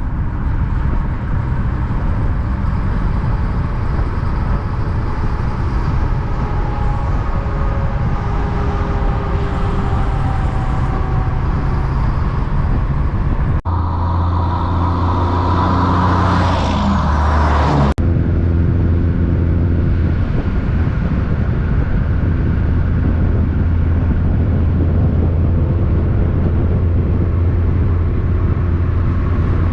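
Big-rig trucks on the road: diesel engines running with road noise, the engine note slowly falling in pitch as a truck passes in the first half. After two abrupt cuts about halfway through, a steady low engine drone.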